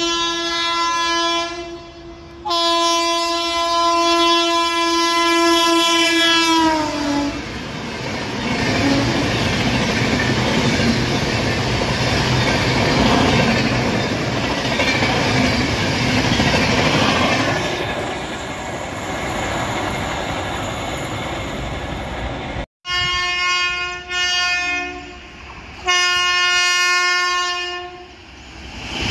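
Indian Railways train horns blowing long blasts as a train approaches, the pitch dropping at the end of the second blast as it passes. Then comes a steady rumble and clickety-clack of double-decker passenger coaches running through the station. After a cut, an electric locomotive sounds its horn three more times.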